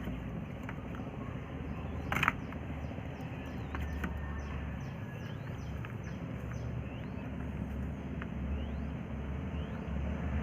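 Quail chicks peeping: short, thin rising peeps scattered throughout, with a quick run of them about four seconds in, over a steady low rumble. A sharp knock sounds about two seconds in, the loudest thing here.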